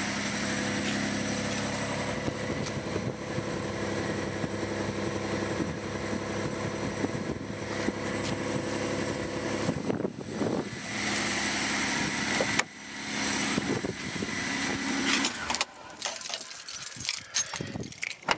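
Toyota 1FZ-FE petrol straight-six idling steadily while still cold, shortly after a cold start. Near the end the engine sound stops, followed by a few clicks and a light metallic rattle.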